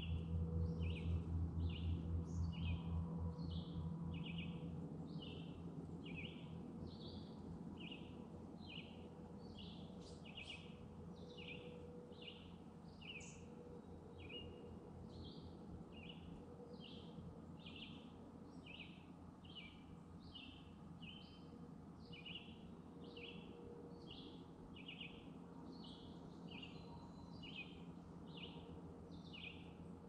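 A bird calling over and over in short, high notes, about one a second. A faint low pulsing hum fades away over the first few seconds.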